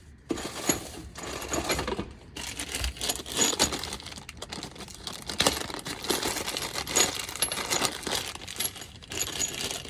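Loose bolts and small metal hardware clinking and rattling as they are picked through by hand, a continuous jumble of sharp metallic clicks and chinks.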